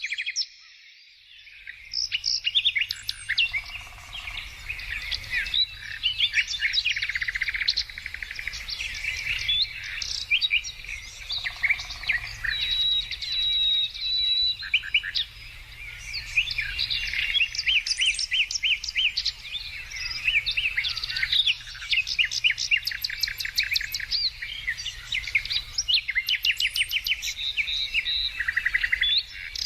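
A chorus of several songbirds singing at once: dense, overlapping quick chirps and trills. The chorus drops out briefly in the first second or so.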